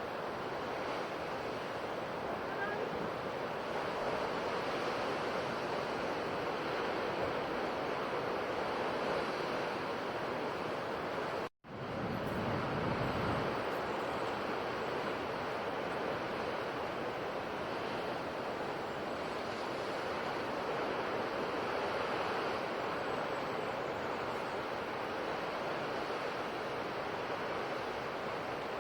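Sea waves washing on a shore: steady surf with slow swells in level. About twelve seconds in the sound cuts out for a split second, an edit splice, and the surf carries on.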